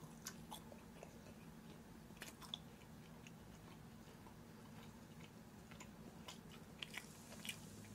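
Near silence: a low steady room hum with scattered faint soft clicks of quiet chewing, a little more frequent near the end.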